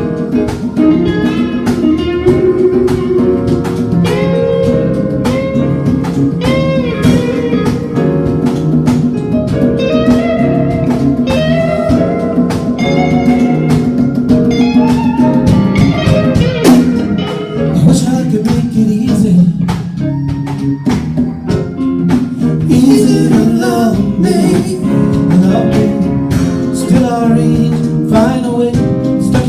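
A band playing a song with electric or acoustic guitar, a steady beat of struck percussion and a sung or lead melody line that bends in pitch.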